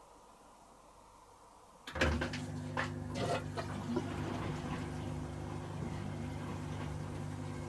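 Hoover H-Wash & Dry 500 washer-dryer starting a water stage: a sudden onset about two seconds in, with a steady electric hum and a rush of water, splashing for the first couple of seconds and then running evenly.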